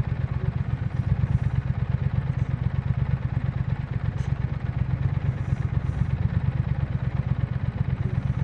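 Triumph Speed Twin 1200's 1200 cc parallel-twin engine idling steadily at even, low revs, with no stumble or dip.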